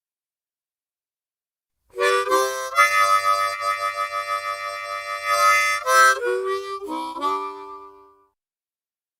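Harmonica playing a short riff that starts about two seconds in: a few quick chords, a chord held for about three seconds, then several short note changes ending on a held low note that stops about two seconds before the end.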